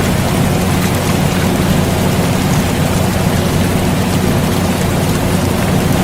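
Steady air conditioner hum mixed with continuous rain hiss, both even and unchanging.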